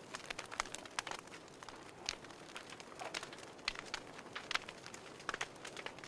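Wood fire crackling in a fireplace: irregular sharp pops and snaps, several a second, over a soft hiss of burning.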